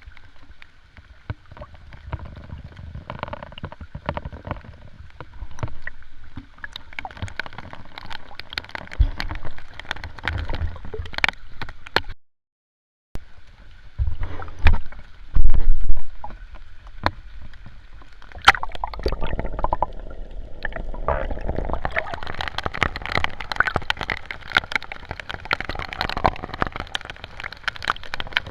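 Sea water splashing and sloshing close to the microphone, with scattered sharp knocks and heavy low rumbling bursts. The sound cuts out completely for about a second near the middle.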